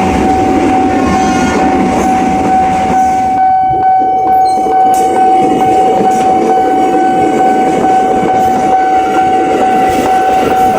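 Motorized Thomas & Friends toy train running, with a steady high motor whine over a continuous rattle of its wheels on the plastic track. It cuts off at the very end.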